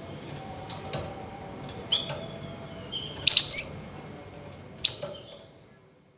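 A flamboyan cage bird giving sharp, high-pitched chirping calls, about five in a row, the loudest about three and a half seconds in.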